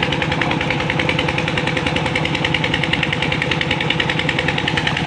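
Tractor engine running steadily at an even, fast beat, without change in speed.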